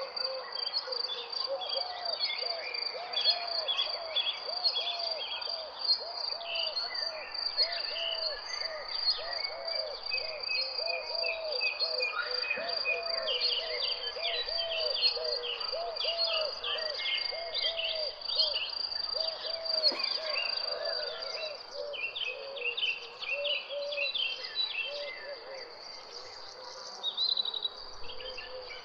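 Nature ambience: a steady, high insect trill like crickets, with birds chirping over it and a lower call repeating about twice a second that thins out near the end.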